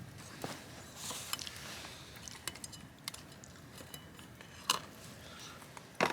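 Light clicks and clinks of tableware being handled during a meal, with two sharper clinks near the end.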